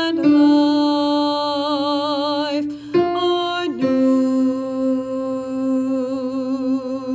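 A tenor voice singing long, held notes with vibrato. The pitch changes about three seconds in and again just before four seconds, and the last note is sustained.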